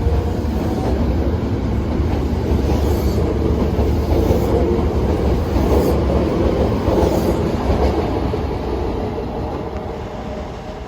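Toei 5300 series train running, heard on board: a steady rumble over the rails with the Mitsubishi GTO VVVF inverter tone rising and dying away about a second in, then several rail-joint clicks about a second apart. The sound fades out near the end.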